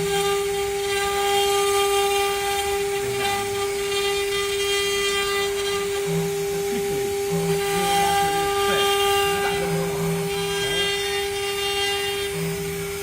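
A 6090 stone CNC router running: a steady, high whistle-like whine with many overtones. Under it, a lower hum switches on and off in short stretches, and in the middle tones glide up and down as the machine moves.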